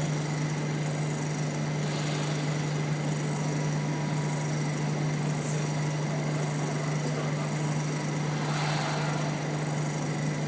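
Peddinghaus CNC sawing and drilling line running, a steady low hum over an even mechanical noise.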